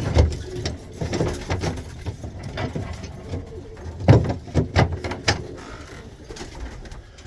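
Tippler pigeons cooing, with sharp taps and knocks among them, the loudest about four to five seconds in.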